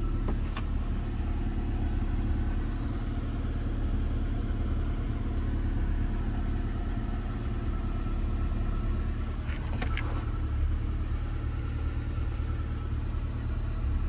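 1990 Honda CRX Si's 1.6-litre four-cylinder engine idling steadily, warming up after a cold start, heard from inside the cabin. Two light clicks come about half a second in and again about ten seconds in.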